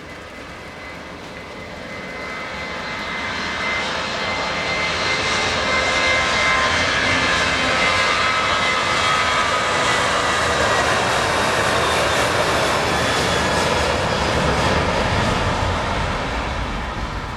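Boeing 737-900ER's CFM56-7B jet engines at takeoff power as the airliner departs and passes. The jet noise builds over a few seconds, holds loud, then fades near the end, with a high whine that slides slowly down in pitch.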